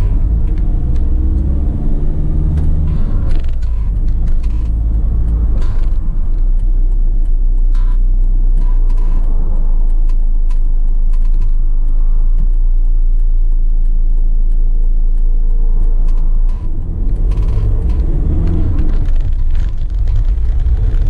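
Volkswagen Crafter's four-cylinder turbo-diesel heard from inside the cab, pulling away and accelerating through the gears, over a steady low road rumble.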